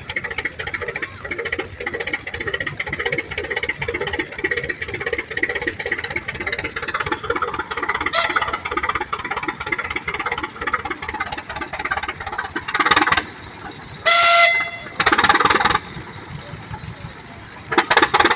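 Farm tractor engine running at a steady, rhythmic beat while working in the field. About fourteen seconds in comes a short whistle blast, and there are several loud bursts of noise near the end.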